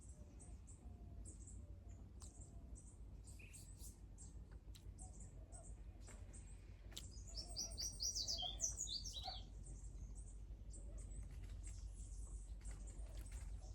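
Small birds chirping, with a quick run of rapid high chirps about halfway through, over a faint steady low rumble.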